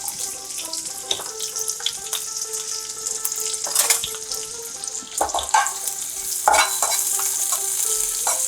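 Sliced onion rings frying in hot oil and ghee in a pan: a steady sizzle that grows louder about halfway through, broken by several scrapes of a spatula stirring them.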